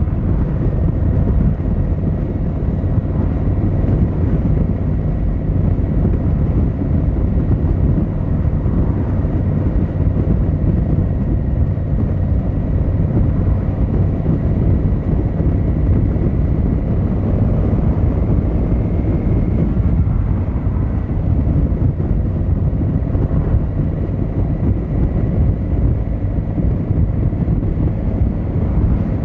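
Yamaha XVZ1300 Royal Star's V4 engine and exhaust running steadily as the motorcycle rides along, a low, even drone without big changes in revs.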